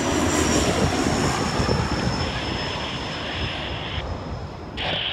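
Turboprop airliner passing low overhead: a dense engine and propeller noise with a thin high whine that falls slowly in pitch, fading as it goes by.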